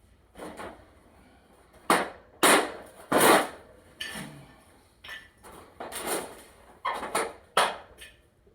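An irregular series of about eleven sharp knocks and scraping strokes, each fading quickly, the loudest in a cluster about two to three seconds in.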